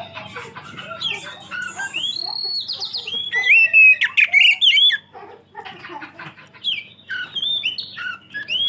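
Oriental magpie-robin (kacer) in full song: a varied run of clear whistles, slurred notes and rapid trills. It is loudest in the middle, with a burst of quick rising and falling notes, then dips briefly before more whistles follow.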